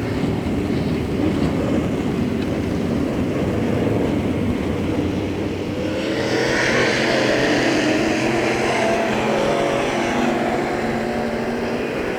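Dirt late model race cars' V8 engines running at speed on the track during hot laps. The sound changes about halfway through and grows louder as cars come by.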